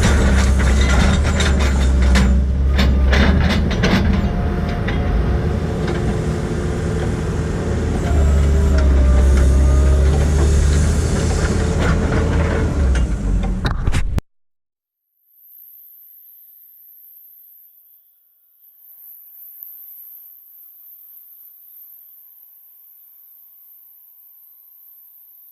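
A heavy machine's engine running loudly and steadily, with a burst of sharp knocks and rattles a couple of seconds in. The sound cuts off abruptly about 14 seconds in, leaving only faint hiss.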